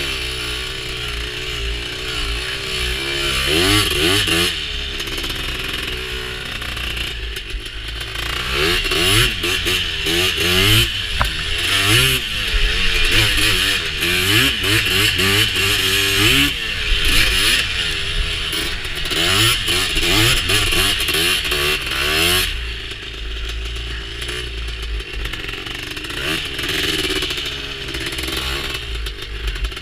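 Honda TRX250R's two-stroke single-cylinder engine under way, its pitch repeatedly climbing and dropping back as the throttle is worked. It runs lower and steadier for the last several seconds.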